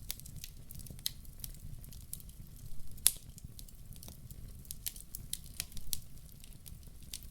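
Fireplace fire crackling: frequent sharp pops and ticks over a low rumble, with one louder crack about three seconds in.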